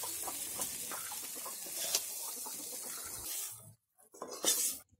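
Raw papaya and potato pieces sizzling in hot mustard oil in a steel karahi while a metal ladle stirs and scrapes against the pan, with small clicks through the sizzle. The sizzle cuts off suddenly about three and a half seconds in, followed by one short scrape near the end.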